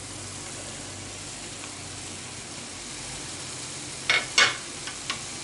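Vegetables frying in a pan with a steady sizzle, with a few short scrapes and clicks near the end.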